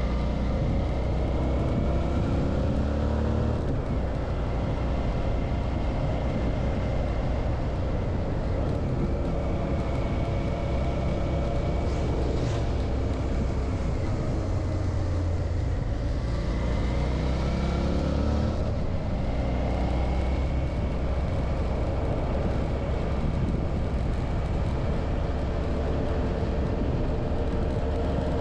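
Suzuki V-Strom 650's V-twin engine running under way, heard onboard. The engine note rises and falls a few times with throttle and gear changes, over a steady low rush of wind.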